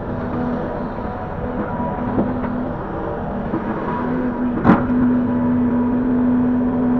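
Link-Belt 145X3E hydraulic excavator's diesel engine running steadily as it loads soil, with a single sharp clank a little past halfway through.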